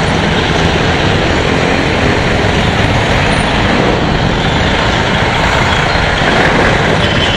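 Riding noise from a Yamaha Aerox scooter: steady wind and road rush over an engine running underneath, with traffic around.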